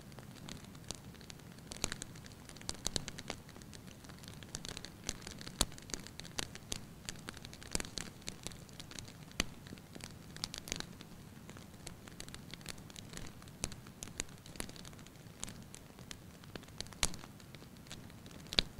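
Wood fire burning in a fireplace: irregular crackles and pops, several a second, over a steady low hiss of the flames.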